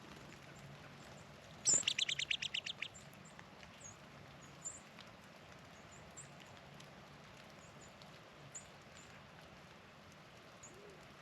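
A songbird sings one short, fast trill of about a dozen quick notes, lasting about a second, near the start. Faint high chip notes sound now and then.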